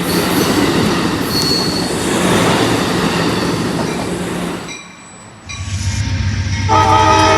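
Passing train: dense rolling noise of railcars with a steady low engine tone, cutting off suddenly about five seconds in. A second train sound follows with a low engine hum, and a chord of steady tones starts near the end.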